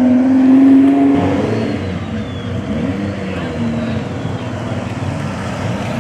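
A car engine revving, loudest about a second in, then settling to a lower, steadier engine note.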